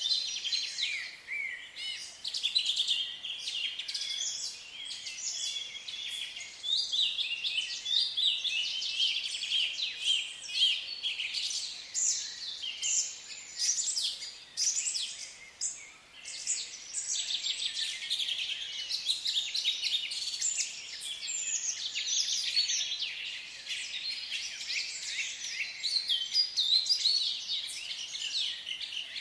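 Many small birds chirping and chattering at once in a dense, continuous chorus of high, quick calls.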